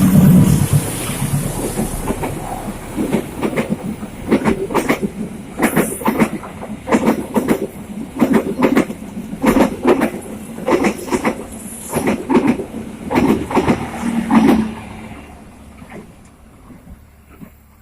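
Train wheels clattering over rail joints in a repeated clickety-clack as the railway carriages roll past, fading away over the last few seconds.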